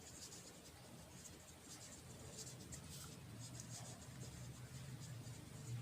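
Faint handwriting: short, irregular scratching strokes of a pen or marker tip on a writing surface, over a low steady hum.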